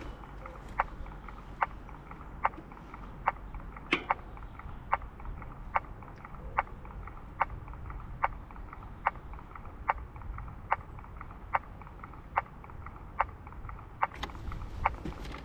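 A sharp click from the bicycle repeating steadily a little more than once a second, over the low rumble of riding.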